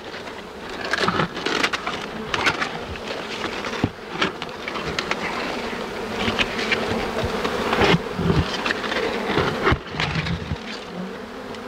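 Dense, steady buzzing of a large honey bee swarm being scooped into a bucket, with scattered knocks and scrapes throughout.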